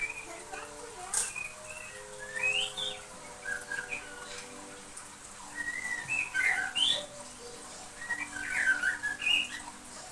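Juvenile white-rumped shama practising its song: several bouts of short, varied warbling and whistled phrases with brief pauses between them, the still-unformed song of a young bird.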